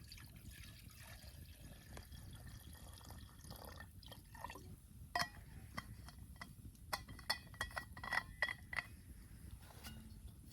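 Faint pouring or trickling of liquid, then a quick run of light clinks and taps in the second half.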